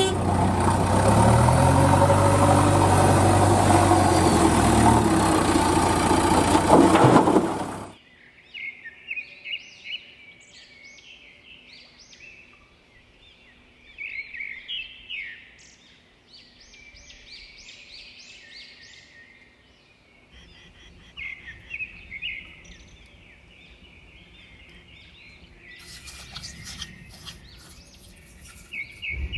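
A heavy vehicle's engine running loud and steady for about eight seconds, then cutting off abruptly. After that, birds chirp on and off.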